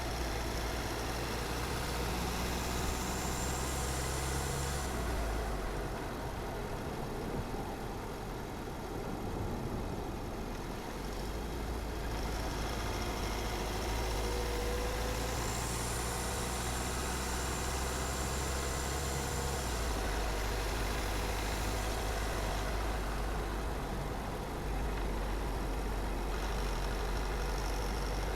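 Car driving along a road: steady engine and tyre noise, with the low engine hum shifting in pitch several times as the speed changes.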